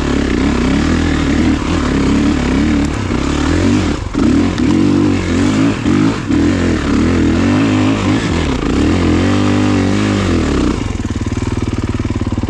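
Kawasaki KX450 dirt bike's four-stroke single-cylinder engine revving hard under load, climbing a hill in second gear. The throttle is chopped and reopened a few times, and the engine drops back to a steady idle near the end.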